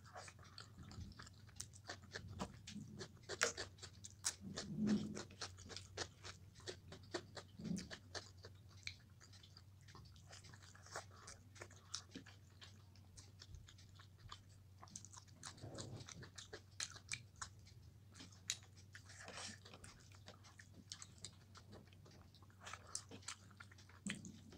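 Close-miked chewing of rice and fried okra eaten by hand, with many short mouth and finger clicks over a faint steady hum.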